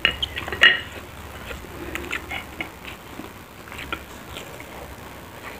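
Close-up eating sounds of crispy fried tempe mendoan: biting and chewing with small crunches and wet mouth clicks, sharpest in the first second.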